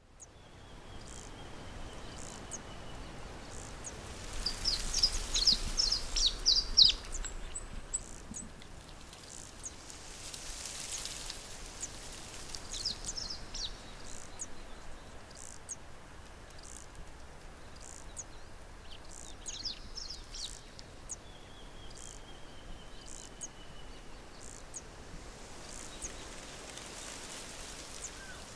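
Wild birds calling over a steady background hiss. There are bouts of rapid, high chirping notes, the loudest about four to seven seconds in, with more bouts later on. Twice a thin, drawn-out whistle falls slightly in pitch.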